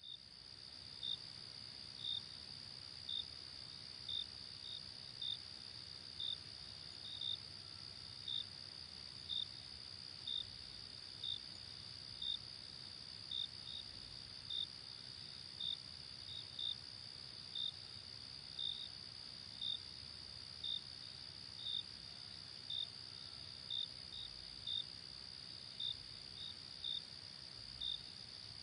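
Night insect chorus: a steady high-pitched cricket trill with a single cricket chirping about once a second over it.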